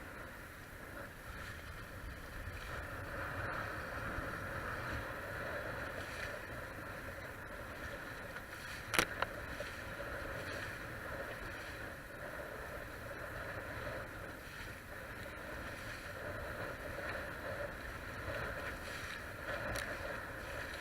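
Steady rush of water and wind as a Hobie Cat sailing catamaran moves along at speed, an even hiss and wash, with one sharp knock about nine seconds in.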